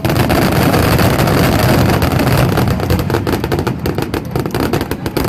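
Fireworks finale barrage: a dense, continuous rumble of overlapping bursts, turning into rapid crackling about two and a half seconds in.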